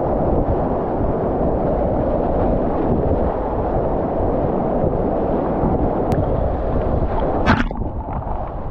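Whitewater rapids rushing and churning close around a kayak, a steady loud wash of water with wind buffeting the microphone. A sharp splash or knock comes about seven and a half seconds in.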